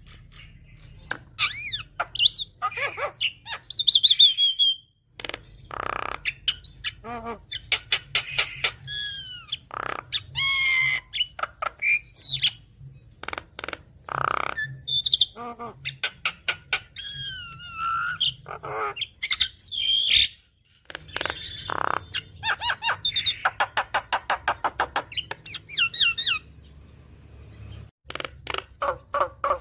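Javan myna singing a long, varied song of whistled glides, clicks and harsh chattering notes, broken by two short pauses, with a fast run of repeated notes near the end.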